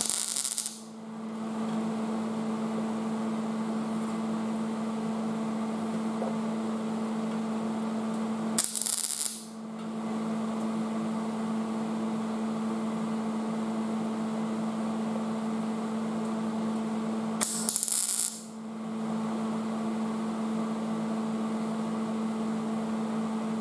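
Welding on thin car-body sheet metal: a steady electrical hum, broken three times, about nine seconds apart, by a short hissing, crackling weld burst lasting about a second.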